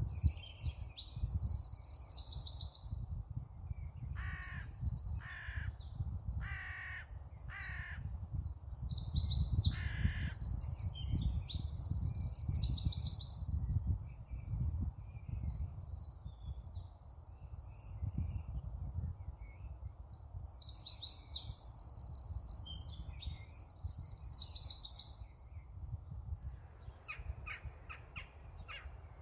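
Outdoor birdsong: a small songbird sings three high, rapid trilled phrases, and a few seconds in a bird gives four harsh cawing calls in quick succession. A low rumble of wind on the microphone runs underneath.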